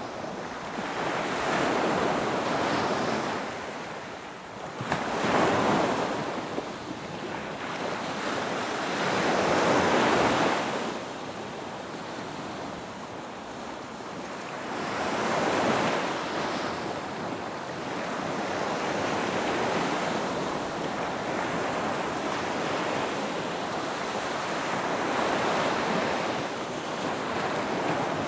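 Ocean waves breaking on a beach: surf rising and falling in swells a few seconds apart, settling into a steadier wash in the later part.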